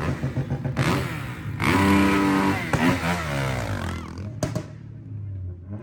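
A car engine being revved hard in repeated surges, the pitch climbing and then falling back, with a couple of sharp clicks near the end.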